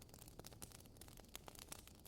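Faint crackling of a wood fire: burning firewood giving off many small, irregular pops and snaps over a soft hiss.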